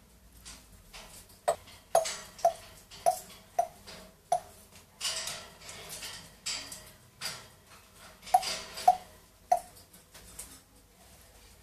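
A pet parrot making a series of sharp, ringing clicks, about two a second, with a few longer hissing sounds midway.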